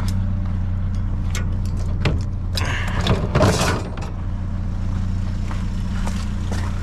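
Steady low hum of an idling vehicle engine, with a few clicks and then a burst of clattering and scraping from about two and a half to nearly four seconds in as junk is shifted about in a dumpster.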